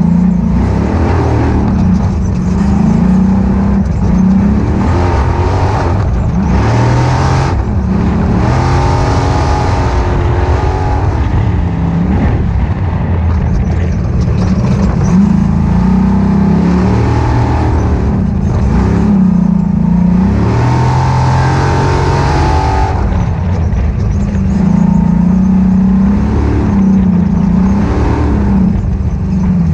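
Ultra4 off-road race car's engine running hard and loud, revving up and falling back over and over as the throttle is worked. Harsher noise swells briefly twice, about seven and twenty seconds in.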